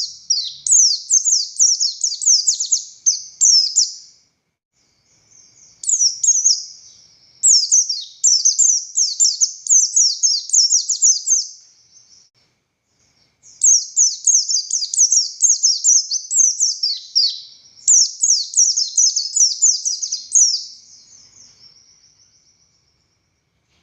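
A buxtoni white-eye (pleci) singing, a long run of fast, high, sharply falling chirps, several to the second. It sings in three long bursts with short pauses between them, and the last burst trails off into a thin twitter near the end.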